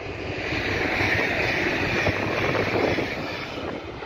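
A Flirt passenger train passing over the level crossing a short way off. Its running noise swells over the first second, holds, and fades near the end.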